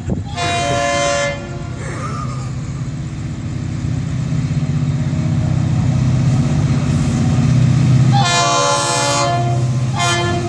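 Diesel locomotive air horn sounding a chord: a blast of about a second near the start, a longer one about eight seconds in, and a brief toot just after. Between the blasts, the low rumble of the approaching freight train grows steadily louder.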